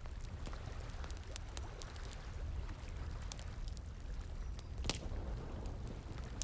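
Campfire crackling in irregular sharp pops, one louder snap about five seconds in, over a steady rush of flowing water with a low rumble.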